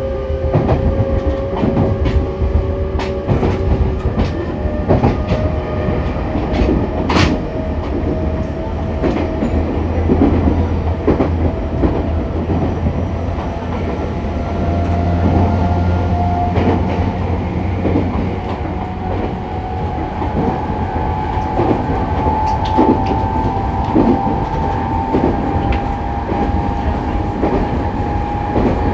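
E501-series electric train motor car running under power: the traction motor whine rises slowly in pitch as the train gathers speed, with the wheels clicking over rail joints.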